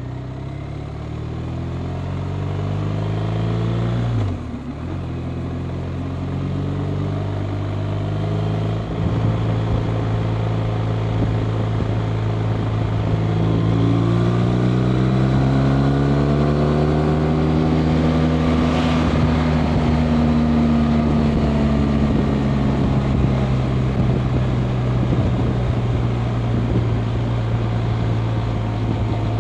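BMW R 1250 RT's boxer twin engine under way on the road. The note climbs and dips briefly with an upshift about four seconds in and again near nine seconds. It then runs steady, rises and falls in pitch again around the middle, and settles back to a steady cruise.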